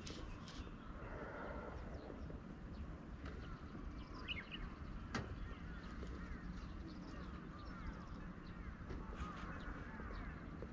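Faint lakeside ambience with distant birds chirping on and off, and one sharp click about five seconds in.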